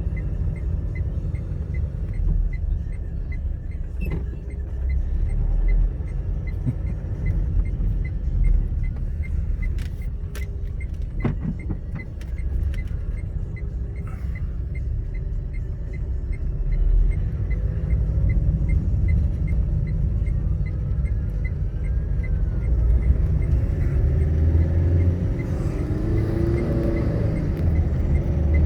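Low, steady rumble of a motor vehicle on the road, with a faint even ticking about twice a second and a few brief knocks.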